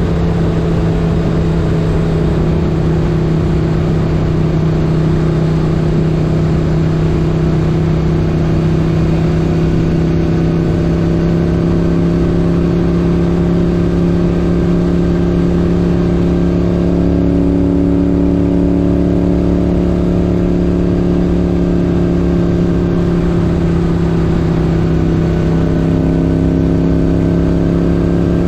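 1978 Moto Guzzi 850 Le Mans's air-cooled 90-degree V-twin engine running under way at a steady speed, its pitch held nearly constant with only small shifts a couple of times.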